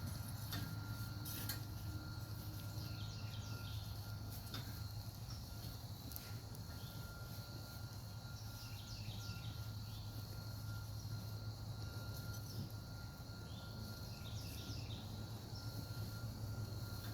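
Outdoor background of insects trilling steadily, with bird chirps coming in short clusters throughout, over a steady low hum and a few faint clicks.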